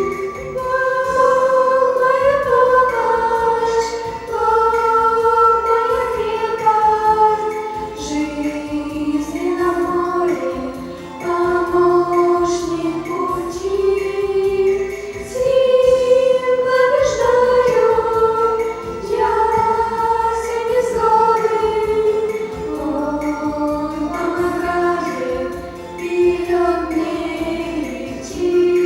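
A group of teenagers singing a Christian song together as a choir, a melody of long held notes.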